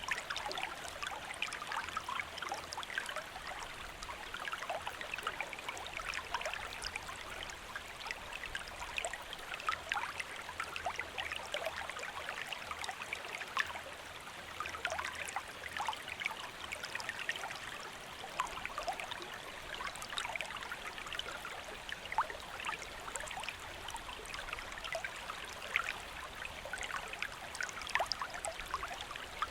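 Small river or stream flowing steadily, a continuous babble of water with many little splashes and trickles.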